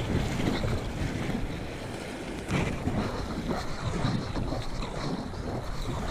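Wind and rubbing noise on a kayaker's GoPro microphone, coming in uneven gusts.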